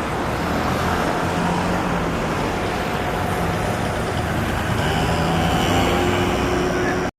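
Steady road traffic noise, a low rumble of passing cars and trucks, which cuts off suddenly near the end.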